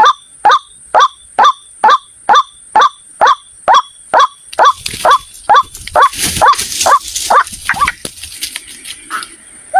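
White-breasted waterhen (ruak-ruak) calling the same short 'kwak' note over and over, about two calls a second, each note rising then falling. A rustling hiss joins about halfway, and the run of calls breaks off about eight seconds in, leaving a few scattered notes.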